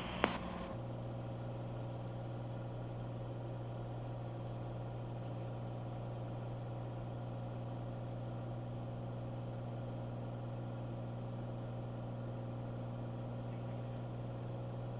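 Steady drone of a Cessna 182's six-cylinder piston engine and propeller in cruise flight, muffled and low-pitched as heard through the cockpit headset audio feed.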